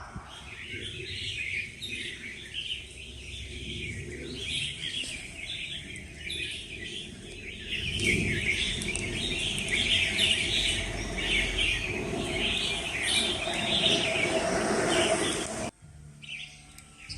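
A chorus of many small songbirds chirping and twittering together, dense and overlapping, over a low background rumble. It cuts off suddenly about a second and a half before the end.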